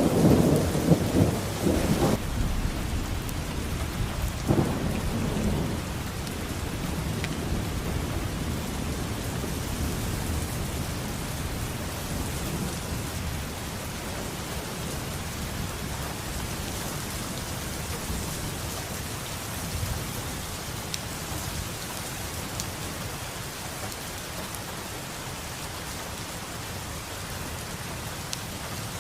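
Steady heavy rain with thunder: a loud rumble of thunder right at the start, a second shorter rumble about five seconds in, then rain falling steadily.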